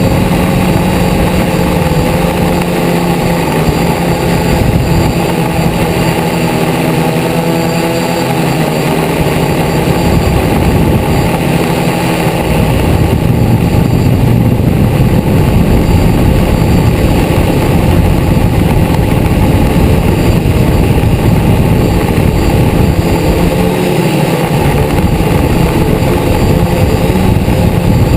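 Multirotor drone's electric motors and propellers buzzing steadily, heard close up from the onboard camera, with several pitches shifting as the motors change speed. It gets louder about halfway through.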